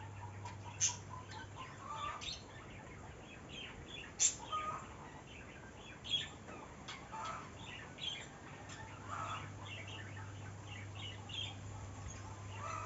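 Birds chirping and calling in short, scattered notes, with a few sharp clicks and a steady low hum underneath.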